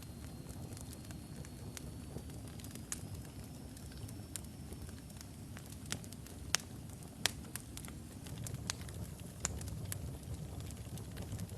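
Wood fire burning in a fireplace: a steady low rumble with irregular sharp crackles and pops from the burning logs, two louder pops a little past the middle. A faint high thin whistle rises slightly in pitch and stops about five seconds in.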